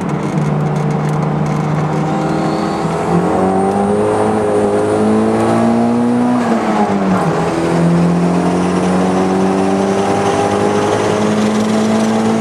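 Toyota MR2 Turbo's turbocharged four-cylinder engine, heard from inside the cabin while accelerating hard. The engine note climbs, drops sharply at an upshift about six and a half seconds in, then climbs again.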